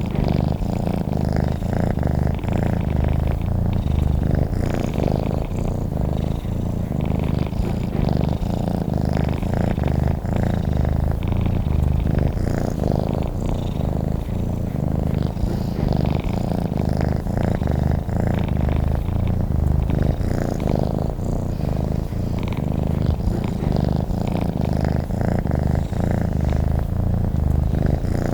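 Domestic cat purring steadily close to the microphone: a continuous low rumble of rapid pulses that swells and eases with each breath, about every two seconds.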